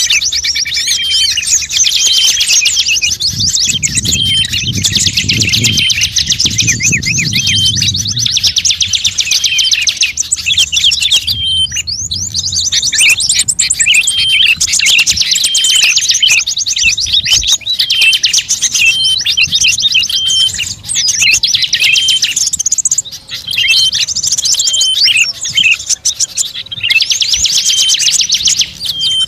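Songbird calls from a bird-trapping lure recording: fast, dense chirping trills with short sharp notes repeated among them, running almost without pause apart from brief breaks about 12 and 23 seconds in. A low rumble sits underneath between about 3 and 8 seconds in.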